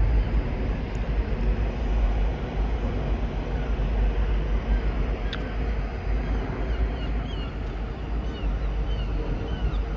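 Outdoor city ambience: a steady low rumble under an even wash of noise, with a sharp click about five seconds in. Short high chirps repeat through the second half.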